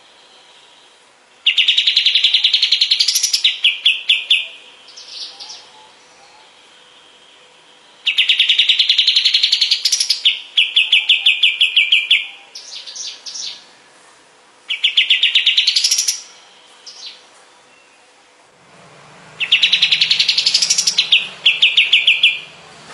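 Kapas tembak bird singing in four loud bursts of very rapid repeated notes, each burst rising in pitch and then breaking into a fast stuttering trill, with a few short notes between bursts.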